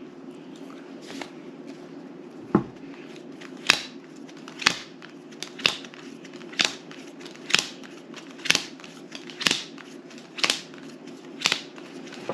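Playing cards being dealt onto a table one at a time, a crisp snap about once a second, starting a couple of seconds in.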